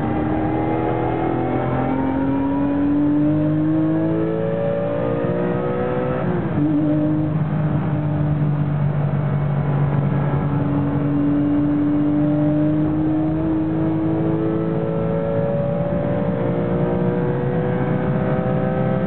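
Porsche 996 GT3 RS race car's flat-six engine heard from inside the cabin, accelerating hard. The engine pitch climbs, dips briefly about six seconds in as it shifts up a gear, then climbs steadily again through the rest of the run.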